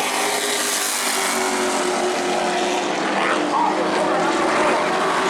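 Race trucks' engines running at speed around a short oval, several engines overlapping in a steady drone with pitches shifting as they pass.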